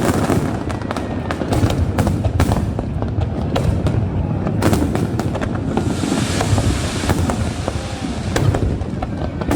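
Aerial fireworks display: a dense run of sharp bangs and crackles in quick succession, with a spell of fizzing crackle from about six seconds in.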